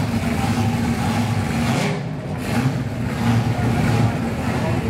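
Drag car's V8 engine idling at a steady pitch.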